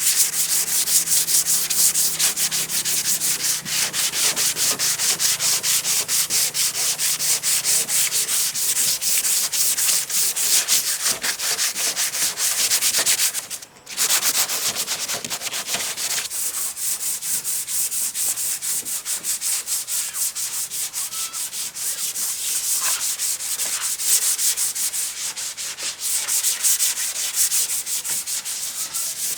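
Hand sanding with sandpaper: rapid, rhythmic back-and-forth strokes, with a brief pause about halfway through.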